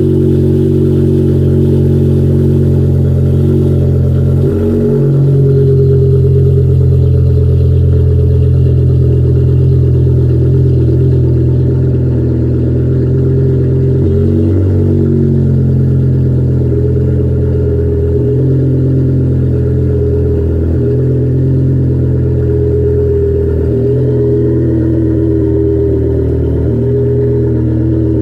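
BMW M5's V10 engine idling after a cold start, running steadily. The idle speed shifts up and down in small steps every few seconds as the engine settles.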